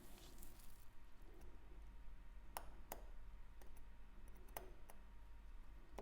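A few faint, sharp clicks and taps of small hand tools on watch parts, spaced a second or two apart, with a brief hiss at the start over a low steady hum.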